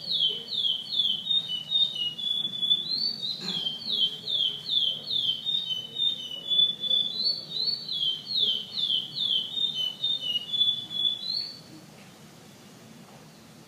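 Curió (chestnut-bellied seed finch) singing a long, unbroken song of clear whistled notes, each sliding down in pitch, about three a second, in the regional 'pardo' competition style. The song stops abruptly about eleven seconds in.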